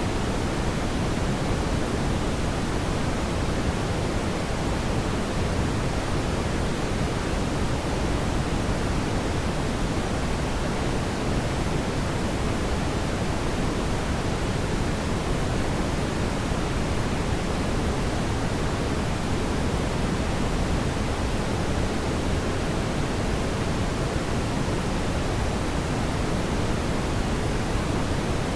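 Steady, even rushing noise of a fireplace ambience track, heaviest in the low end and without distinct crackles or pops.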